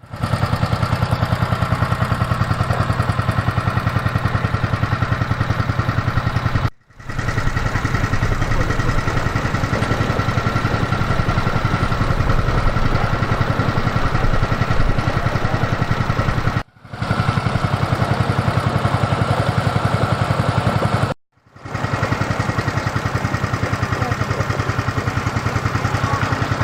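Motor tour boat's engine running steadily with a low drone, cut off abruptly three times.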